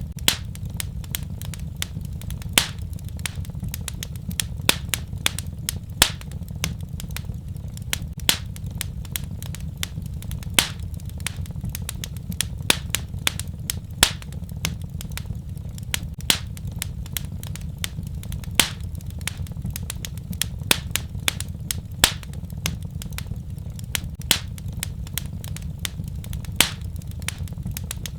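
Wood fire crackling and popping in a fireplace: irregular sharp pops, several a second, over a steady low rumble of the flames.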